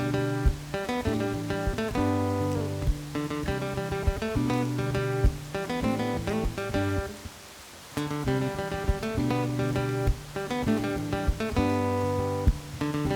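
Background music: an acoustic guitar playing picked and strummed chords, with a brief pause about seven seconds in.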